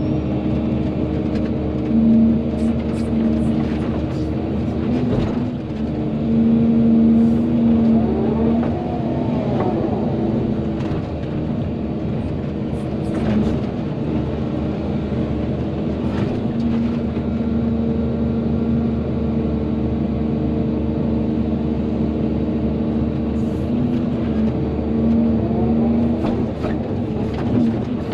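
Volvo EC220DL excavator's diesel engine running steadily under working load, with a hydraulic whine that rises and falls twice as the machine works and a few faint clanks.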